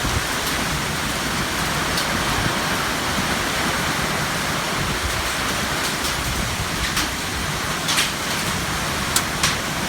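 Heavy rain falling steadily. A few sharp taps stand out, most of them near the end.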